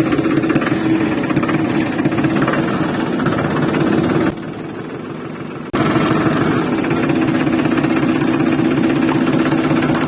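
Mini diesel engine running fast with a dense, rapid knocking rattle and a steady drone. About four seconds in, it drops quieter for about a second and a half, then comes back at full level.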